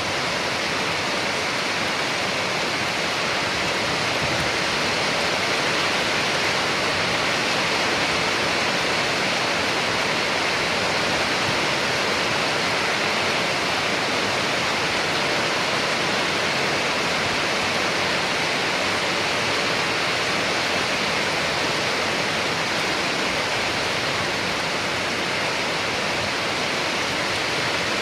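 Steady heavy rain, a constant even hiss with no distinct drops or thunder.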